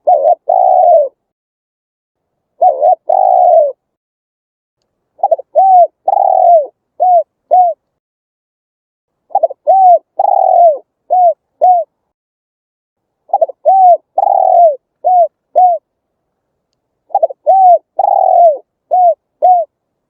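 Spotted dove cooing in repeated phrases of low, arched coos. The first phrases are short two- or three-note calls; from about five seconds in, each phrase has five notes: two quick coos, a longer one, then two short ones, about every four seconds.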